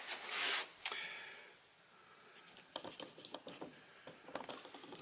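Handling noise: a brief rustle, a sharp click about a second in, then light scattered clicks and taps. This is hands working the gauge and hose fittings or fumbling for a switch; no vacuum motor is running.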